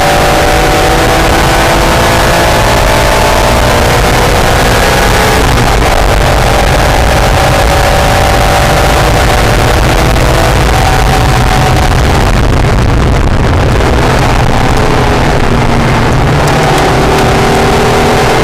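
Acura NSX's V6 engine pulling hard on track, its pitch rising and falling with the revs, over heavy wind noise.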